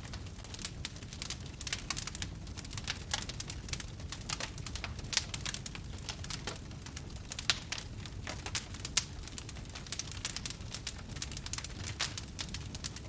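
Wood campfire crackling, with a dense run of irregular snaps and pops over a low steady rumble. A few louder pops stand out.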